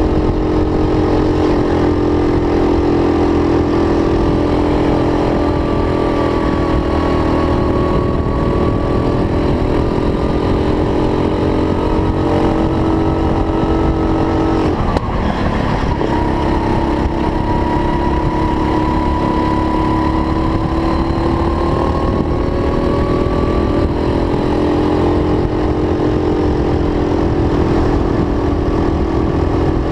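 Go-kart engine running hard at racing speed. Its pitch sags and climbs again through the corners, with a short dip about halfway.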